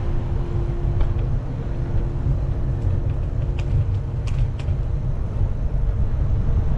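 Heavy wind rumble on the microphone of a moving bicycle, with a steady engine-like hum of nearby traffic and a few faint clicks.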